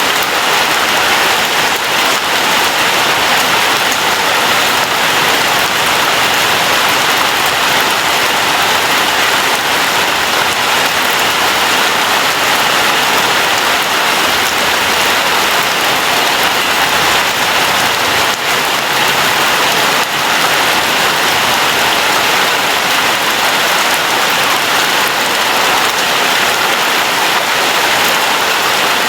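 Steady rainfall, a continuous even hiss of many drops pattering on surfaces, with no thunder or other events standing out.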